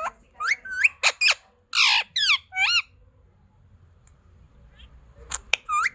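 A pet parrot calling: a quick run of short, sliding-pitched calls, a pause of about two seconds, then a few more calls near the end.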